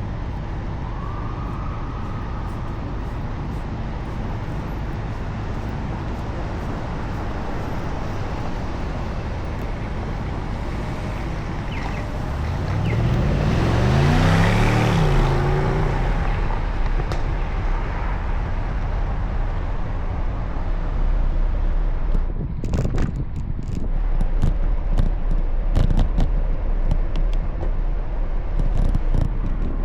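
Steady traffic and wind noise during a bicycle ride, with a motor vehicle passing close about halfway through, its engine tone sliding down in pitch as it goes by. Low rumbling and scattered knocks near the end.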